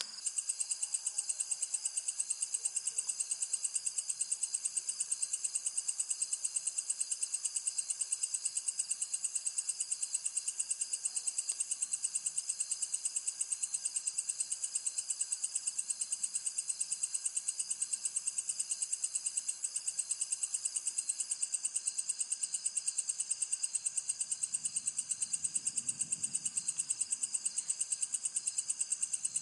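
Rainforest insects calling in a steady, high-pitched chorus made of very rapid pulses, with no let-up.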